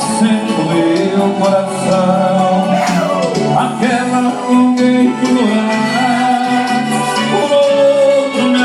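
Music played through a mobile sound rack: a song passage with melodic lead lines gliding in pitch over sustained low notes.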